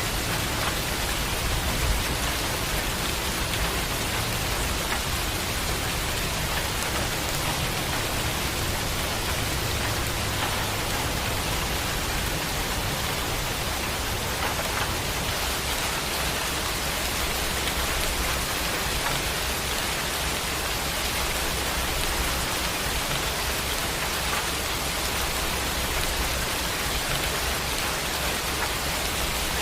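Steady heavy rain falling, an even dense hiss. A low rumble of distant thunder sits under it in roughly the first ten seconds.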